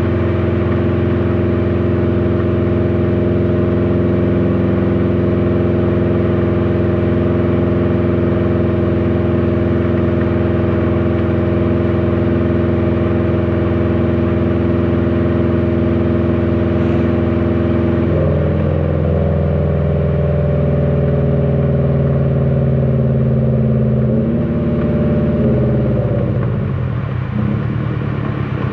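Subaru WRX STI's turbocharged 2.5-litre flat-four running through an AWE Track exhaust, cruising at steady revs. The engine note shifts twice in the second half, and near the end the revs drop to a lower, pulsing beat.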